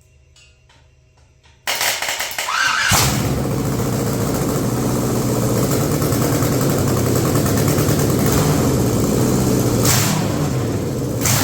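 GM LS V8 engine cranked by its starter, wired direct, and catching almost at once, after a few faint clicks at the start. It then runs steadily, with two brief sharp bursts near the end.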